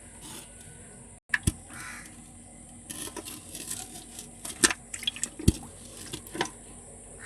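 Irregular splashing and handling noises with several sharp knocks; the loudest knocks come about two-thirds of the way through.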